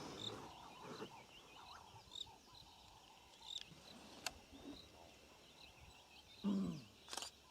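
Quiet bush ambience with faint, scattered bird chirps. About six and a half seconds in there is a brief, louder pitched sound lasting about half a second, then a short one just after it.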